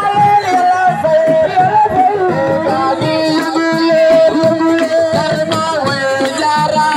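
Live Senegalese assiko music: a singer holding long, wavering notes over busy hand-drum percussion.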